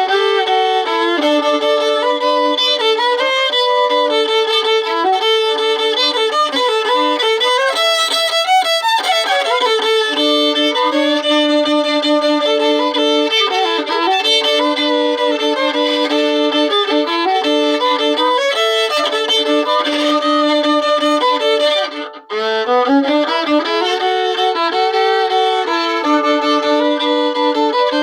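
Solo fiddle being bowed through a Cajun-style practice tune, often sounding two strings together, with one brief break in the playing about three-quarters of the way through.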